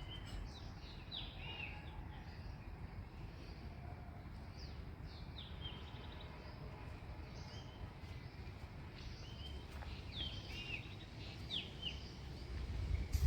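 Small birds chirping, scattered short high chirps, over a steady low rumble, with a brief low thump near the end.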